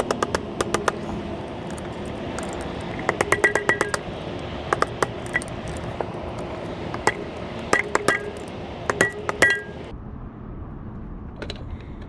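Small metal engine parts and hand tools clinking and tapping against each other in short clusters, some strikes ringing briefly, as clutch components are handled and fitted on a small motorcycle engine. A steady hum underneath stops near the end.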